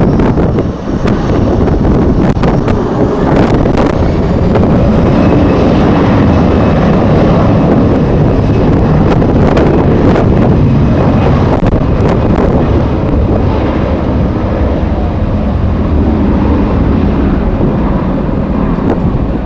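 Strong wind buffeting the microphone over the steady rumble of a jet airliner's engines, with a faint engine whine rising in the first few seconds.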